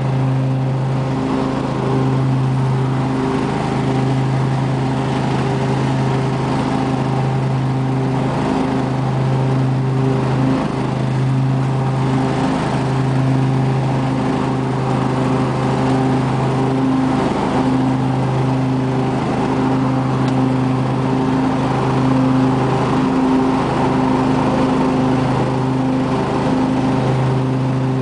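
The 24 HP Briggs & Stratton V-twin of a 2005 Husqvarna lawn tractor running steadily at an even speed.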